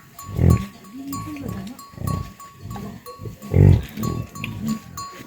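Farm animals calling: a series of low, drawn-out calls, loudest about half a second in and again just before four seconds, with shorter calls between.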